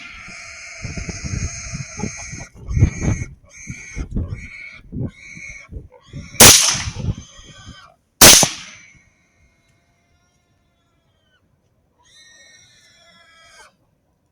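A wounded feral hog squeals over and over in shrill bursts. Two loud rifle shots come at about six and a half and eight seconds in, and fainter squeals follow near the end.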